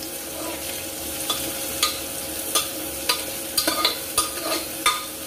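Chopped onions frying in hot oil in a pressure cooker, sizzling steadily, while a steel spoon stirs them and clicks and scrapes against the pot at irregular moments.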